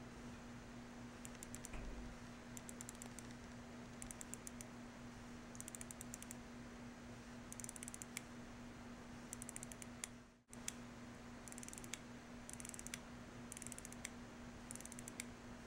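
Laco Dortmund's hand-wound ETA 2804.2 movement being wound by its crown: faint bursts of fine, rapid ratchet clicks, about ten winding strokes spaced a second or two apart.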